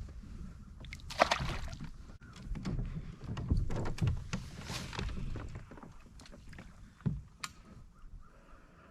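Irregular clunks, knocks and rustling of gear being handled in a kayak, with sharp clicks about a second in and again near the end, fading out after about six seconds.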